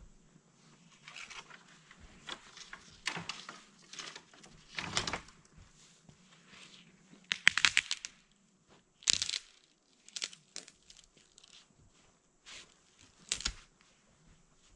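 Branches and twigs being snapped and broken by hand: a series of irregular crackling snaps and cracks, the sharpest a little past halfway through and again near the end.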